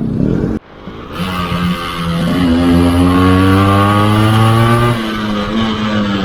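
Yamaha RX 135's two-stroke single-cylinder engine on the move, its note climbing in pitch as it accelerates from about a second in and holding high, then falling sharply near five seconds in.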